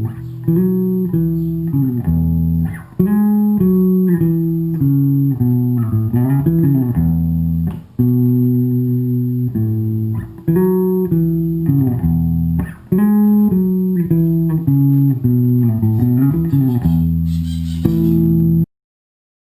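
Electric bass guitar played through a bass cabinet with JBL 12PW5 12-inch speakers: a repeated riff of plucked notes with slides, over a faint steady high-pitched whine. It stops abruptly near the end.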